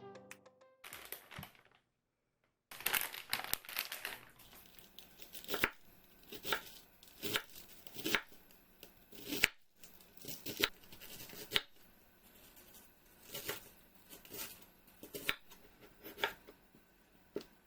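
Food-preparation handling sounds: irregular light knocks and clicks, about one a second, with rustling between them. There is a brief silence about two seconds in.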